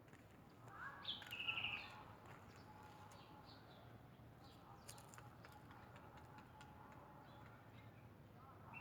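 A bird calling once, about a second in, followed by a few faint chirps over a quiet outdoor background.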